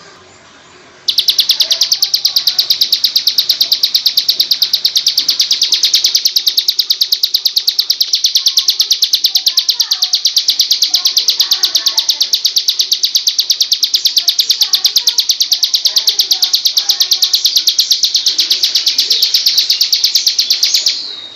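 A songbird's rapid staccato trill, the 'trotol' kind used as a masteran for white-rumped shamas: high chirps repeated evenly several times a second. It starts abruptly about a second in and runs steadily until it stops just before the end.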